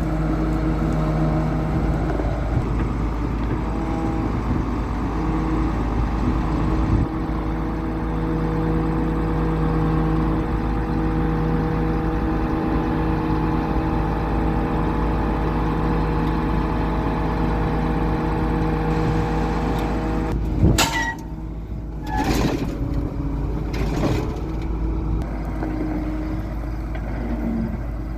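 A large engine running steadily, its tone shifting slightly about seven seconds in, with a few sharp clunks near the end.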